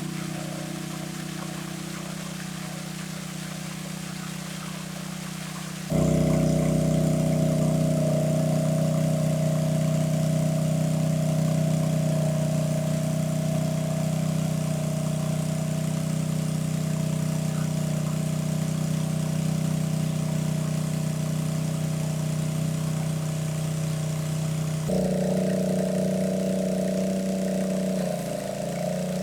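A small engine running steadily at constant speed. About six seconds in it abruptly becomes louder with a different pitch, it shifts again near the end, and it dips briefly in pitch just before the end.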